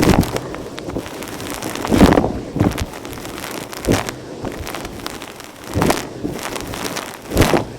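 Vacuum cleaner running and sucking up gritty dirt and fluff, with crackling and crunching as debris goes up the hose. The sound surges louder about every two seconds.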